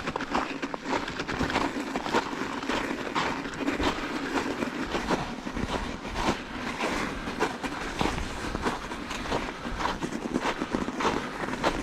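Bicycle riding over crusted snow: a dense, irregular crackling and rattling of tyres on the snow crust and the bike's parts.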